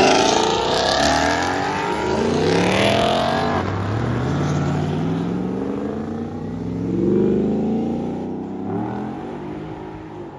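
Car engine revving hard as it accelerates away. The pitch climbs and drops several times as it shifts up through the gears, fading with distance toward the end.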